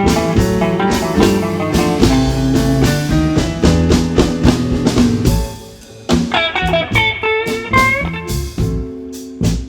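Live blues band playing: guitar, piano, bass and drums together, until the band drops out about five and a half seconds in, leaving single-note guitar phrases with slight pitch bends over a few drum hits.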